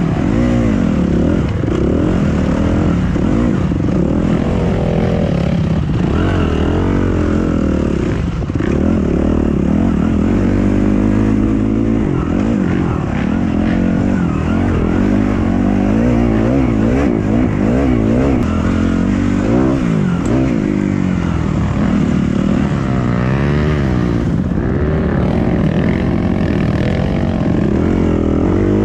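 Dirt bike engine being ridden, the throttle opening and closing over and over so the engine note keeps rising and falling in pitch.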